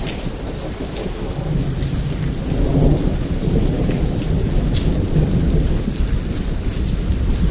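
Heavy rain falling steadily with scattered sharp drop ticks, under a low rumble of thunder that swells about a second and a half in and keeps rolling.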